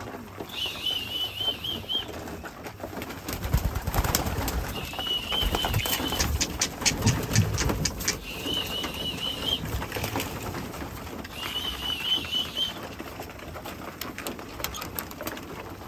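A pigeon-calling whistle blown in four short warbling trills, a few seconds apart, to call young racing pigeons into the loft. A run of sharp clattering comes in the middle, with pigeons in the background.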